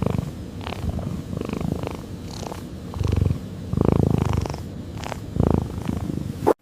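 A cat purring continuously, swelling louder a few times and stopping abruptly near the end.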